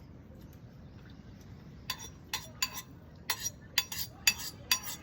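Metal cutlery clinking against a dish again and again, starting about two seconds in, a few ringing clinks a second over a low steady background.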